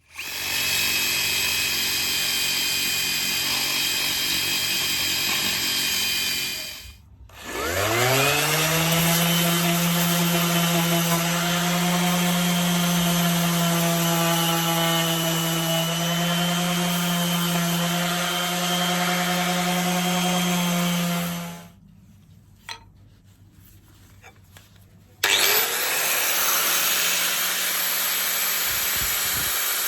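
An electric power tool running on wood in three spells. It stops briefly about seven seconds in and spins up again with a rising whine, runs steadily, cuts off at about twenty-two seconds, then starts again at about twenty-five seconds.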